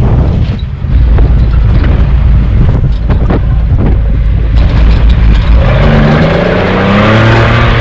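Off-road vehicle engine under a heavy, loud low rumble; a little over halfway through it revs up, its pitch climbing steadily.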